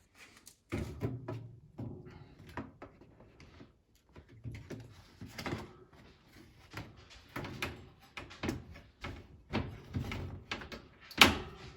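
A new HVAC air filter being handled and pushed into a ceiling return-air grille: irregular rustling, scraping and knocks, with a louder knock near the end.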